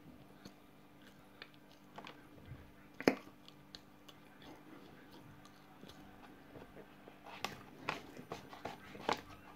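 Mouth noises of someone eating dry cornflour: scattered soft clicks and crunches of chewing, with one sharp click about three seconds in and a quicker run of clicks near the end.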